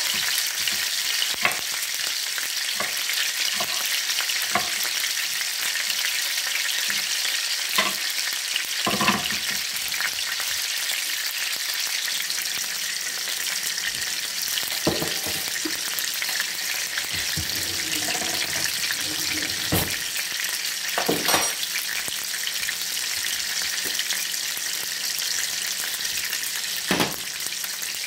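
Meatballs frying in oil in a nonstick skillet: a steady sizzling hiss with scattered small pops, and a few louder knocks now and then.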